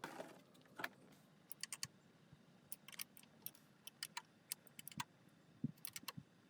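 Irregular light metallic clicks and clinks, twenty or so, from small hard parts or tools being handled, with a short rustle at the start.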